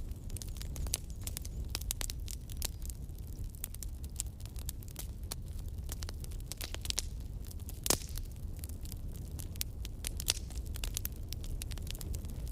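Wood campfire crackling and popping, with irregular sharp snaps over a low steady rumble of the flames; one louder pop comes about two-thirds of the way through.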